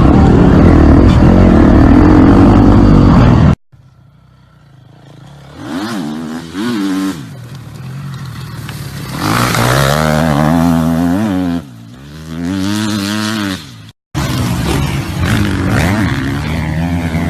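Motocross motorcycle engines: a dense pack at full throttle that cuts off suddenly about three and a half seconds in. Then bikes rev up and down in repeated rising and falling pitch, broken by another sudden cut near the end.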